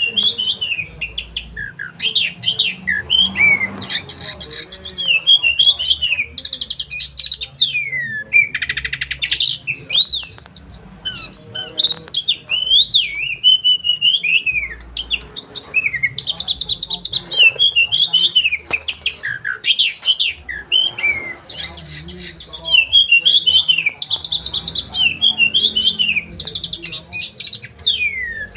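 Oriental magpie-robin singing a continuous, varied song of sharp whistled notes that glide up and down, broken by several fast rolling rattles of repeated notes.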